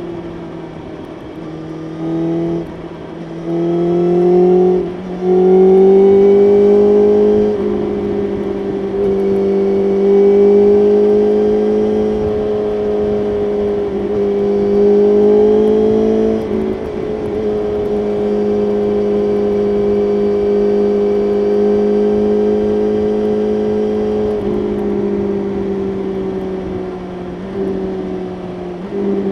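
BMW S1000RR's inline-four engine accelerating hard, its pitch climbing and breaking at each of several quick gear changes in the first few seconds. It then holds a steady high-revving cruise with a couple of brief dips as the throttle eases.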